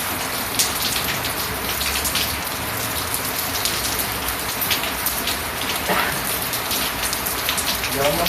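Steady rain falling, with many individual drops striking hard surfaces close by.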